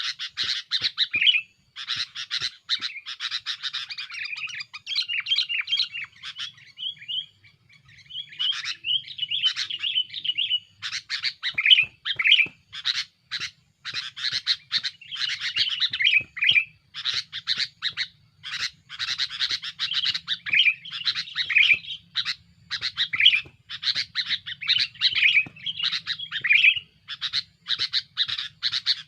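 Sooty-headed bulbul singing busily: a rapid, near-continuous run of short chirping, bubbling phrases with only brief pauses.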